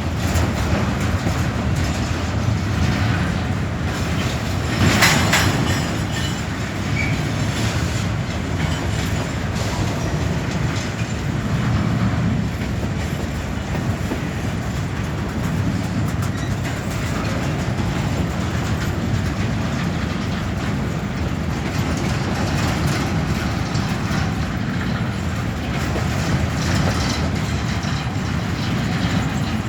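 Freight train cars rolling past at speed, their wheels clacking over the rail joints, with a brief louder burst of metallic noise about five seconds in.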